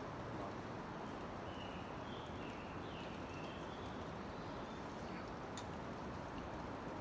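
A few short, high bird chirps about one to four seconds in, over a steady background hiss, with a single click near the end.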